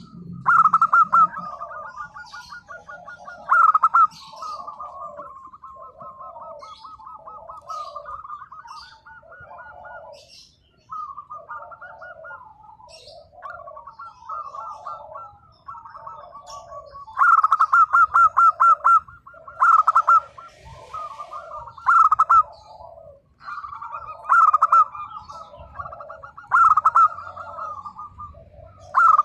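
Zebra dove (perkutut) cooing, repeating its phrase over and over, with louder phrases of rapid notes several times.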